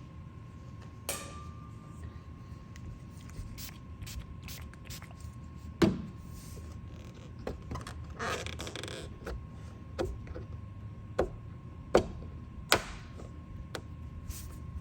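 Scattered sharp clicks and knocks at irregular intervals, the loudest about six seconds in and twice near the end, over a faint steady tone.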